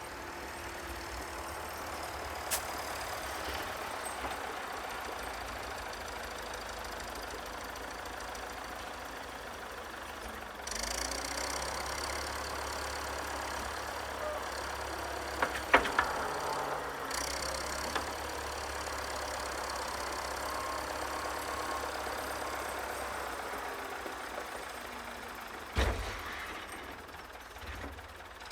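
Engine of a 64-year-old Volvo tractor running steadily, getting louder about ten seconds in as it works. A few sharp knocks and clunks cut in along the way.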